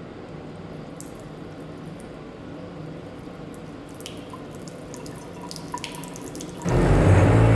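A few light clicks, then about seven seconds in a faucet is turned on: a sudden loud, low, steady hum over the rush of water. The hum is the noise this faucet makes when it is turned on.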